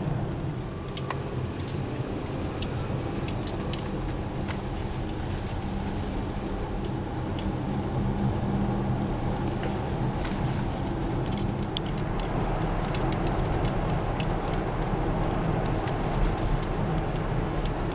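Steady road and engine rumble of a moving car, heard from inside the cabin, with scattered faint ticks throughout.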